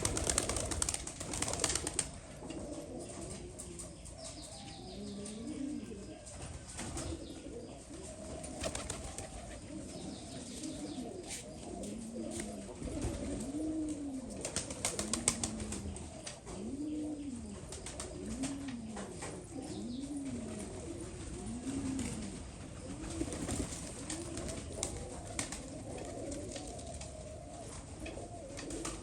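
Domestic pigeons cooing over and over, low rising-and-falling coos, with wings flapping and clicks now and then.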